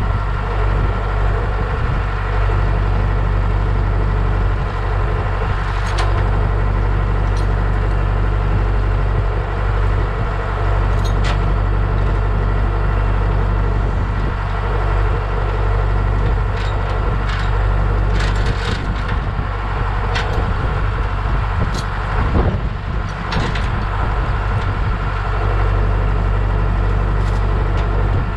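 A heavy engine running steadily at idle, with scattered sharp knocks and clanks on top, a few of them close together about two-thirds of the way through.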